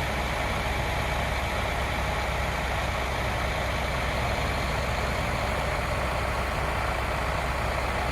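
Heavy truck diesel engine running steadily, a low drone with no breaks: the concrete pump truck powering its pump while it pushes concrete out through the boom.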